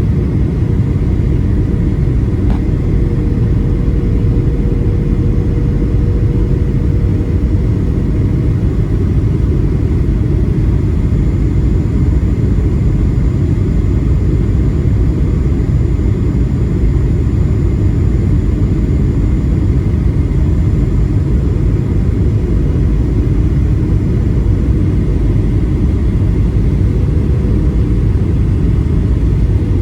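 Steady, unchanging cabin rumble of a Boeing 737-800 airliner in flight: the noise of its CFM56 jet engines and the airflow, with a few faint steady tones over it.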